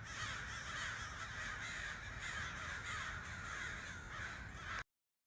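Faint, continuous calling of a distant flock of crows, with no single call standing out. It cuts off suddenly near the end.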